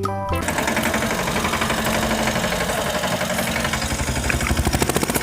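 Tractor engine running steadily with a fast, even knocking chug.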